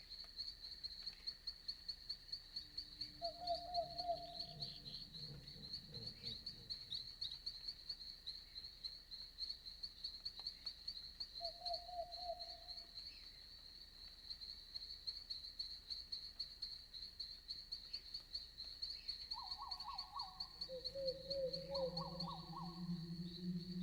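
Night forest ambience: a steady, high-pitched, fast-pulsing insect chorus runs throughout. Short trilling frog calls come every few seconds, and a deeper call swells in near the end.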